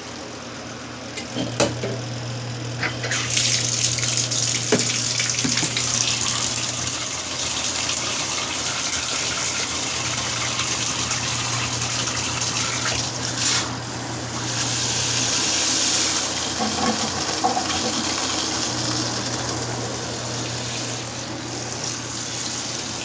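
Water pouring into the tub of a portable washing machine, a steady gushing hiss from about three seconds in. Under it the washer's motor hums in spells, stopping and starting every few seconds as it agitates the load.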